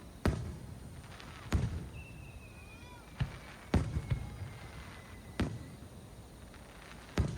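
Aerial firework shells bursting: five sharp, echoing bangs about every one and a half to two seconds, with a thin whistle that slowly falls in pitch through the middle.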